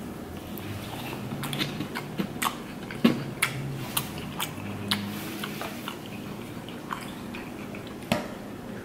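Close-miked chewing of a bite of soft cake donut: wet mouth clicks and smacks scattered throughout, with a sip of milk near the end.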